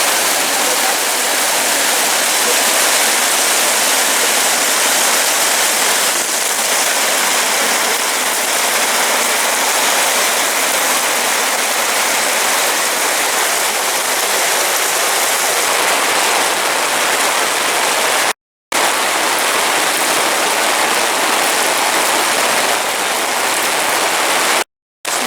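Steady rain falling: a dense, even hiss that cuts out briefly twice near the end.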